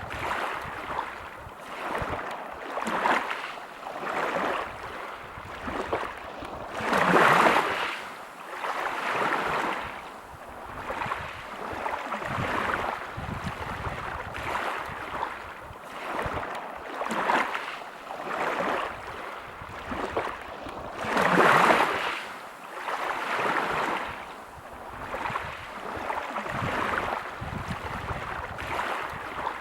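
Small waves breaking on a pebble beach: a rushing wash that swells and ebbs every couple of seconds. Two bigger breakers stand out, one about a quarter of the way in and one about two-thirds through.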